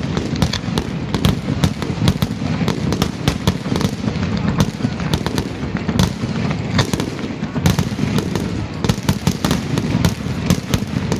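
Fireworks display in full swing: a dense, continuous barrage of sharp cracks and bangs from shells bursting several times a second, over a steady rumble of booms.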